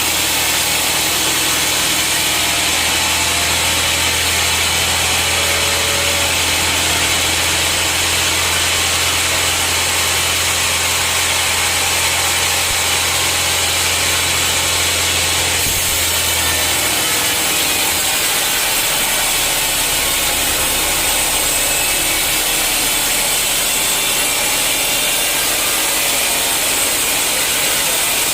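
Sawmill saw cutting through a teak stump: a loud, steady rasping cut with no break. A low machine hum underneath stops about two-thirds of the way through while the cutting noise carries on.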